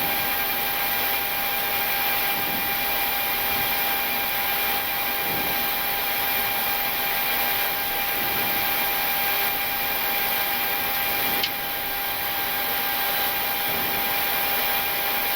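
Steady Boeing 737-800 flight-deck noise with the engines at idle while taxiing: an even rushing hiss with a few steady whining tones. The level drops slightly about eleven seconds in.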